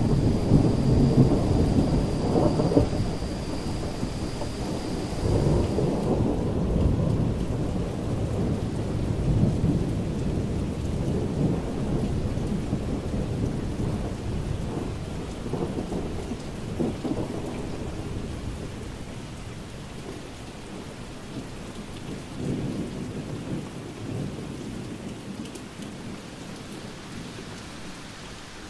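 Rolling thunder rumbling over steady rain, loudest in the first few seconds and then slowly dying away.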